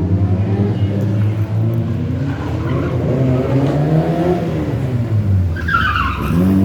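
Rally car engine revving, its pitch climbing and dropping as it is worked through a drift manoeuvre, with a brief high squeal near the end.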